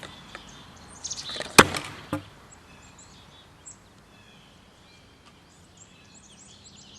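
Gas-powered airsoft mortar launching a rocket shell: a short hiss and clicks, then one sharp, loud pop about a second and a half in, followed by a smaller knock half a second later. Birds chirp faintly in the background.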